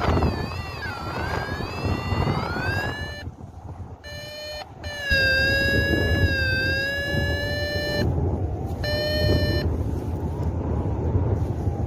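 Paragliding variometer sounding a continuous electronic tone that wavers and glides in pitch and breaks off several times, over wind noise on the microphone.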